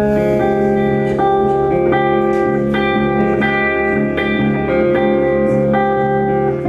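Guitar playing an instrumental passage live: a repeating figure of picked notes, a new note about every three-quarters of a second, ringing over sustained low notes.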